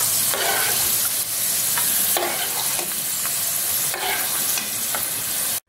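Cashews and raisins sizzling in hot sunflower oil in a pan, with a few scrapes and taps of a spoon against the pan as they are lifted out. The sound cuts off suddenly near the end.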